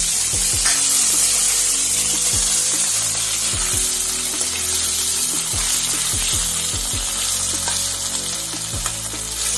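Soya chaap pieces sizzling steadily as they fry in hot mustard oil in a kadhai, with the occasional scrape of a metal ladle turning them.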